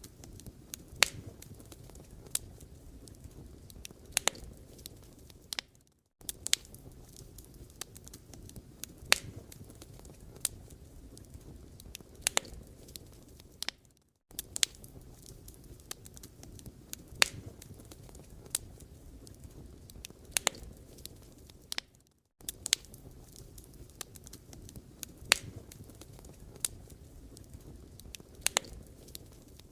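Wood fire crackling, with sharp irregular pops and snaps over a low steady rustle. The sound drops out briefly about every eight seconds.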